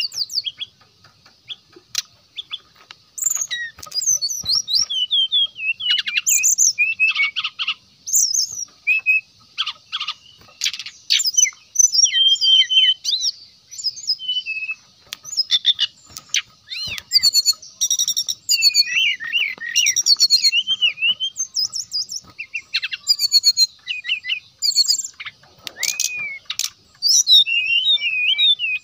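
Brown-chested jungle flycatcher (sikatan rimba dada coklat) singing continuously: a busy run of varied chirps, whistled glides and fast trills, over a steady high hiss.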